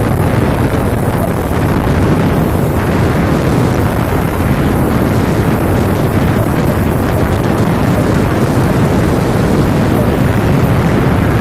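Heavy truck running, a loud steady rumble with wind buffeting the microphone.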